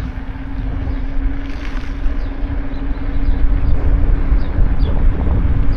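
Wind buffeting the microphone of a camera on a moving bicycle, with a steady low hum under it. The rumble gets louder about halfway through.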